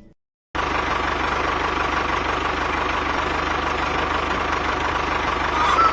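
Diesel engine idling steadily with an even, fast chug, cutting in suddenly about half a second in after a moment of silence.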